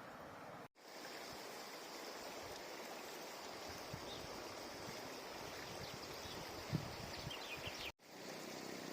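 Steady rushing of a river's flowing water, cut off completely for an instant twice.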